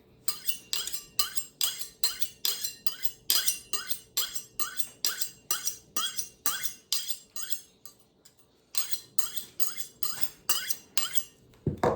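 Kitchen knife being sharpened: quick repeated scraping strokes of the blade, roughly two to three a second, with a short break about two-thirds of the way through before a few more strokes.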